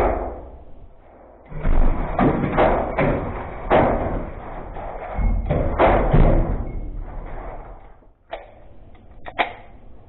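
9mm Glock 43X pistol firing a string of about a dozen shots at an irregular pace, each with a short ringing tail; most come in a close run between about two and six seconds in, with a few spaced shots near the end.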